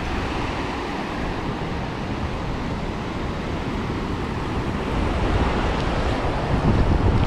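Sea surf rushing on a beach, with wind buffeting the microphone; it grows louder about five seconds in.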